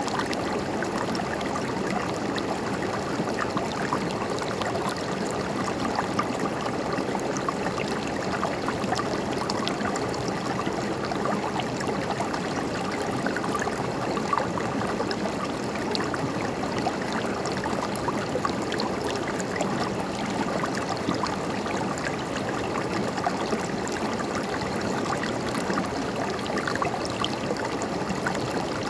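River water flowing and gurgling over rocks: a steady rushing babble dotted with small splashes.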